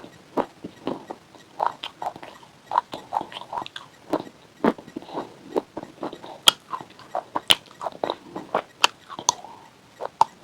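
Close-up crunching and chewing of hard, brittle white chips with a pink coating: a dense, irregular run of sharp cracks and snaps, with a few louder bites in the second half.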